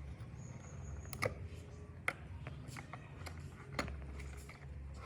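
A few sharp clicks over a low steady hum, the loudest a little after a second in, at about two seconds and near four seconds.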